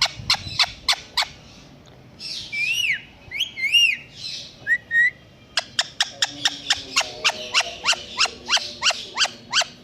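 Indian ringneck parakeet calling: a few sharp rising chirps, then several arching whistled notes in the middle, then a rapid series of sharp chirps, about four a second, through the second half.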